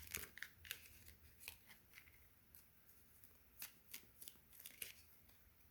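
Tarot deck being shuffled by hand to draw a clarifier card: faint, irregular soft clicks and rustles of the cards.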